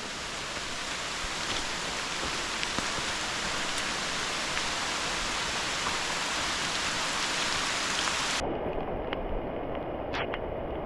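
Rain falling steadily as a dense, even hiss with scattered drop ticks. About eight seconds in, the sound turns abruptly duller: the high hiss drops away and a lower rushing remains.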